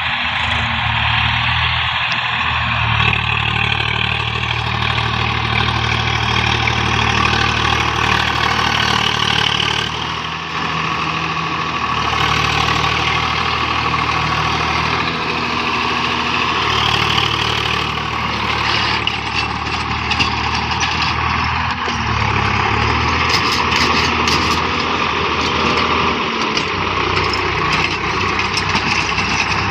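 A Swaraj tractor's diesel engine runs steadily while working a field with a cultivator. Its pitch shifts briefly about two-thirds of the way through, then settles again.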